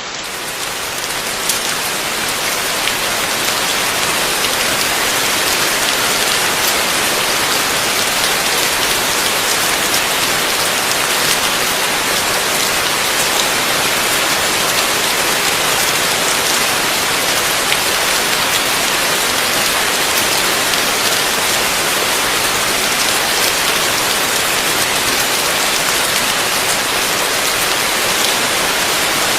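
Heavy rain falling steadily, a dense hiss with scattered individual drop ticks, fading in over the first few seconds.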